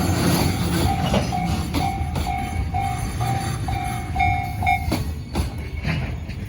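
Container freight train of loaded Koki wagons rolling past, with a steady low rumble and sharp clicks of the wheels over rail joints. A ringing tone repeats about twice a second and stops about five seconds in.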